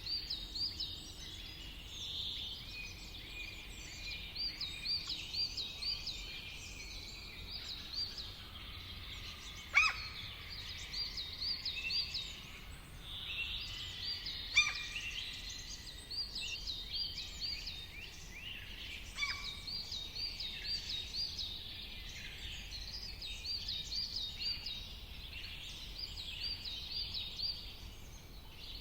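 A chorus of songbirds chirping and singing over a steady low background rumble, with quick repeated high chirps throughout. Two sudden, louder falling notes stand out, about ten and fifteen seconds in.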